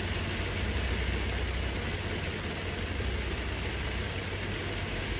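Heavy rain falling on a car's roof and windshield, heard from inside the cabin as a steady hiss over a low hum.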